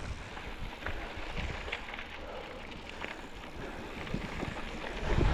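Wind buffeting the microphone as a low rumble, with scattered light clicks and knocks; the rumble grows louder near the end.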